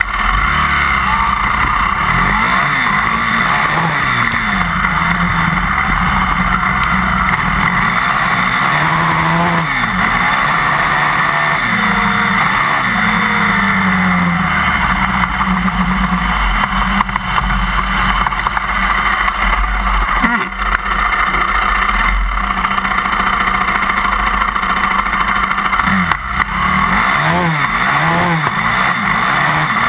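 Yamaha WR400F enduro motorcycle's single-cylinder four-stroke engine revving up and falling back again and again as it is ridden, heard close to the rear wheel over a steady rushing noise, with two brief dips in the sound in the second half.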